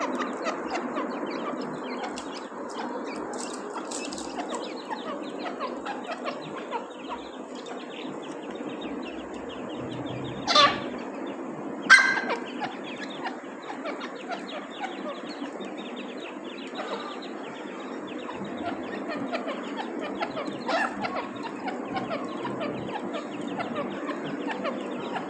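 Francolin (teetar) chicks calling continuously, many small overlapping cheeps and clucks, with two louder calls about ten and twelve seconds in.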